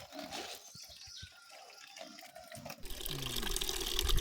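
Water dripping and trickling with scattered light clicks. About three seconds in, the sound changes abruptly to a louder, steady rush of running water.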